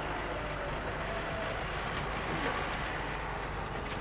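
Massey Ferguson 600 series tractor's diesel engine running steadily, with an even mechanical drone and no sharp changes.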